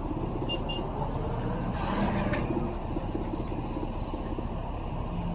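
Busy street traffic running steadily, with a short hiss about two seconds in.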